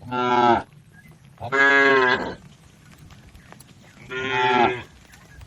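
Cattle mooing: three short moos, the middle one the longest.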